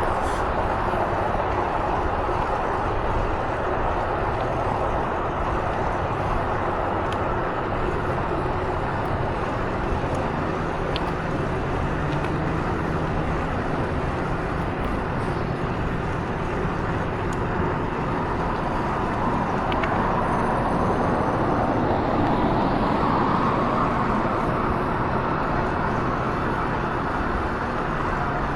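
Steady rushing noise of a vehicle on the move, wind and road noise at an even level with no clear engine note.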